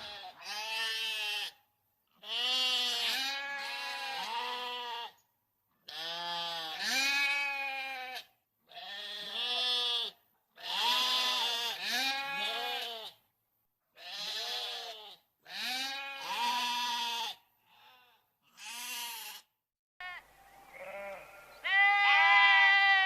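Bleating livestock: a dozen or so separate bleats, each one to two seconds long with a quavering pitch, in short clips divided by silent gaps. Near the end a new clip with a faint background hum brings one louder bleat.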